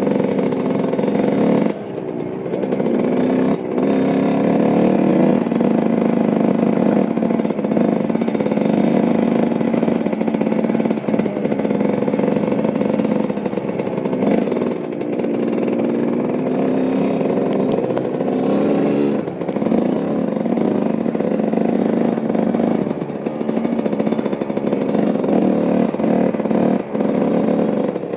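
Small vehicle engine running, its pitch rising and falling as it is throttled up and down, with brief dips about 2 s in and again near the middle.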